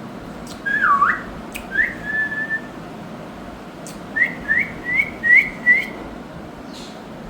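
Indian ringneck parakeet whistling: one swooping note dipping and rising, then a rising note held briefly, then five short rising whistles in quick succession.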